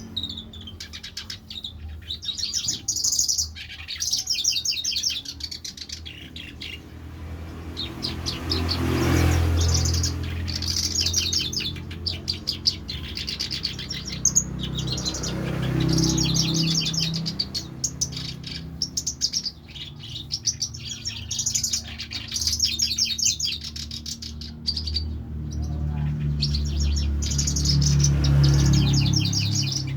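A pet songbird chirping and twittering in quick high bursts, again and again, over a low rumble.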